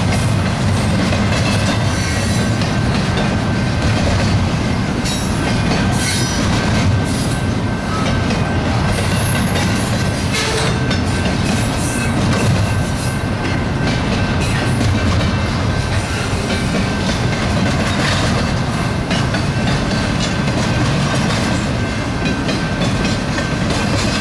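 Double-stack intermodal freight train's well cars rolling past at speed: a steady rumble of steel wheels on rail with scattered clicks over the joints and a thin, steady high-pitched wheel squeal.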